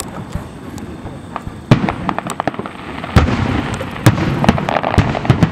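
Aerial firework shells bursting in quick succession, with many sharp bangs and crackling between them. The loudest bang comes about a second and a half in, and more heavy bangs follow about three and four seconds in.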